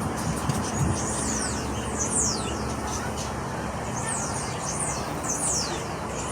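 Several small birds chirping with quick, very high notes that slide down in pitch, overlapping one another, over a steady background hiss.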